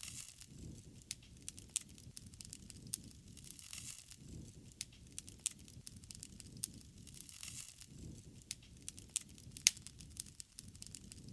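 Wood fire crackling, with irregular sharp pops and snaps over a soft low rush that swells and fades every second or two.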